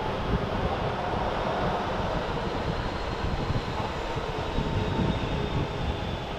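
Jet airliner engines running with a steady, loud rumble and a faint high turbine whine above it.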